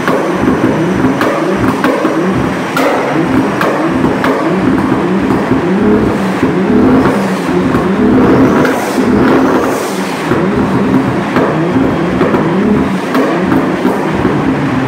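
Toyota Supra's turbocharged straight-six running loud under load on a chassis dyno during a power run, with a few sharp exhaust cracks as it spits flames.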